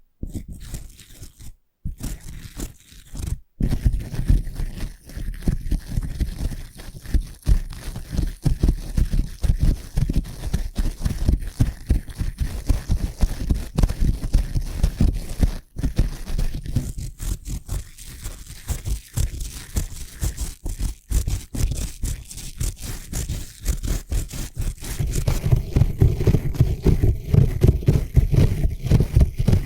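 Stiff bristle brush rubbed rapidly over the microphone, a dense run of scratchy strokes. There are a few brief breaks in the first seconds, and the strokes grow heavier in the last few seconds.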